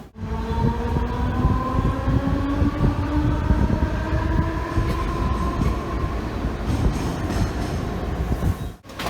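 Indian Railways train running, with a low rumble and a whine that rises slowly in pitch as the train gathers speed.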